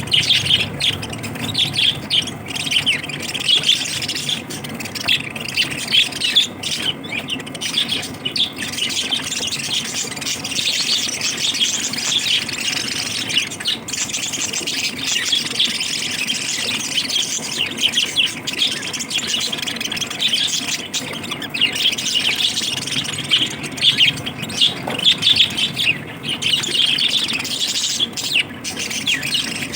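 Pet lovebirds chattering and squawking nonstop, a dense stream of rapid high-pitched chirps and shrill calls.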